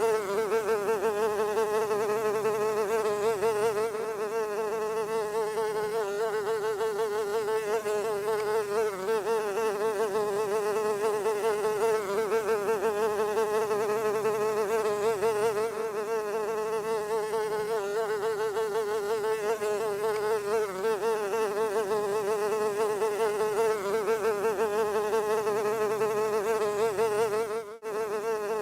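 A fly buzzing in a continuous, steady drone with a slightly wavering pitch. It breaks off briefly just before the end and resumes at once.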